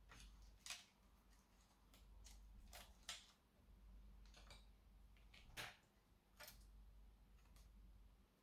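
Faint, irregular clicks and ticks of small hard parts being handled during laptop disassembly, about a dozen over eight seconds, over a faint steady low hum.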